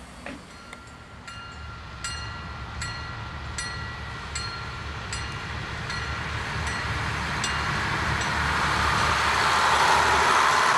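A bell rings in even strokes, a little more than once a second, then fades under the rising rush of a diesel railcar approaching and running past, which grows loudest near the end.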